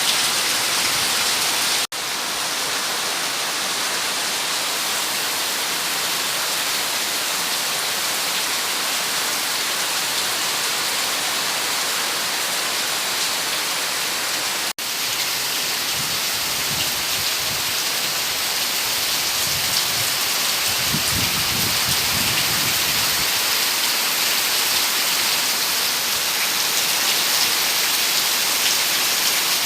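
Rain falling steadily, an even hiss with no breaks in the rain itself. The sound cuts out for an instant twice, near the start and about halfway through. A low rumble runs under the rain for several seconds in the second half.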